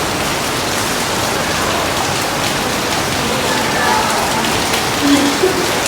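Steady heavy rain falling, an even dense hiss of drops hitting surfaces.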